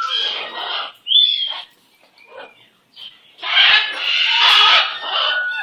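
Pet bird calling: harsh, raspy squawks, with a short clear whistle about a second in and the loudest, longest squawk lasting nearly two seconds from about three and a half seconds in.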